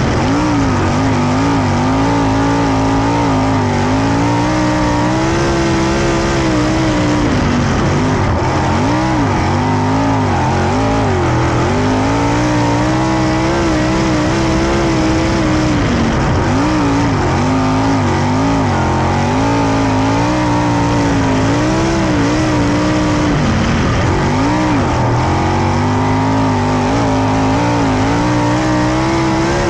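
410 sprint car's V8 racing engine running hard on a dirt oval, its pitch repeatedly dipping and climbing as it goes off and back on the throttle through the turns.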